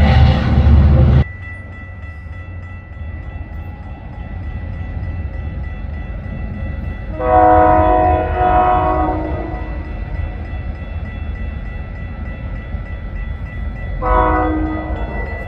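Train horn sounding a long blast of about two seconds, then a short blast near the end, over a moving train's steady low rumble. A louder train noise cuts off abruptly about a second in.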